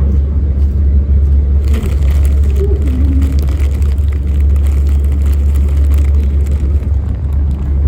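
Steady low rumble of wind buffeting the microphone on the open deck of a moving ferry, with a brighter rushing hiss from about two seconds in until near the end.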